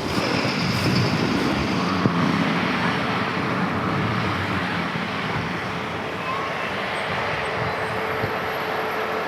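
Diesel locomotive of the CP holiday train running with a steady rumble.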